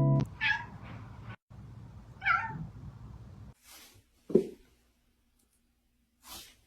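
Domestic cat meowing: two short meows in the first few seconds, then a lower, falling cry near the middle.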